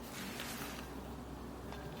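A lull between paper-cutting strokes: faint paper rustling with a light tick or two over low room tone.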